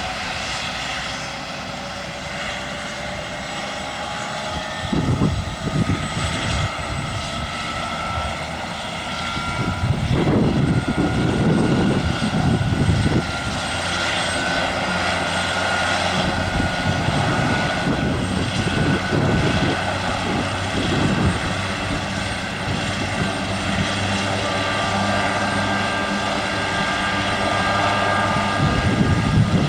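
Aerospatiale AS332L1 Super Puma helicopter running, its twin-turbine whine climbing gently in pitch over the first ten seconds or so and then holding steady over the rotor noise. Bursts of low rumble come about five seconds in and again around ten to thirteen seconds.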